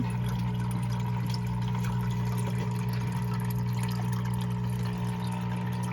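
Steady electric hum of a small water pump running, with water trickling under it.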